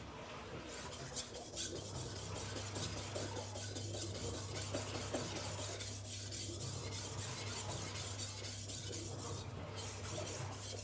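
Steel cleaver edge scraping back and forth on a wet 1000-grit silicon carbide whetstone in continuous rasping strokes, grinding the edge to raise a burr on one side.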